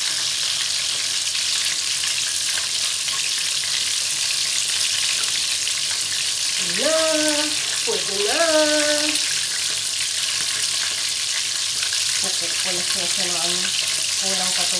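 Coated chicken pieces frying in shallow oil in a frying pan, a steady hissing sizzle. About seven and eight and a half seconds in come two brief voice-like sounds that rise in pitch, and faint broken voice-like sounds begin near the end.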